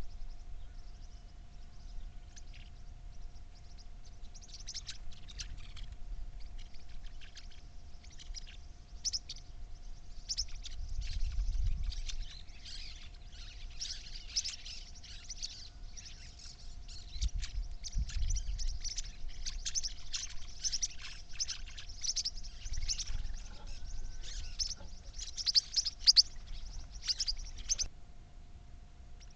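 Small birds chirping, many short high chirps overlapping densely from about four seconds in until near the end. A steady faint hum runs underneath, with a few low rumbles.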